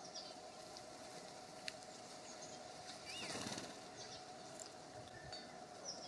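Small songbirds giving short, high chirps, with a brief flurry of wingbeats about halfway through and a single sharp tick a little before it.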